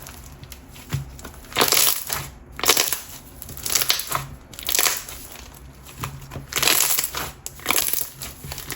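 Coated clear slime with jelly cubes being pressed and worked by hand, making repeated crackly, squelching squishes about once a second.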